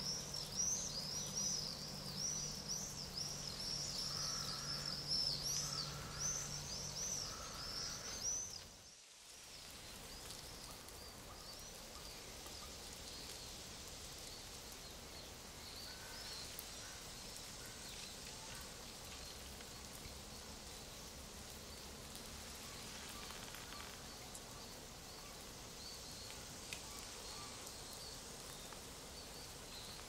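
Small birds singing in quick, repeated high chirps over a low steady hum for about the first nine seconds. The sound then cuts out briefly and gives way to a quieter, even hiss of forest ambience with occasional faint chirps.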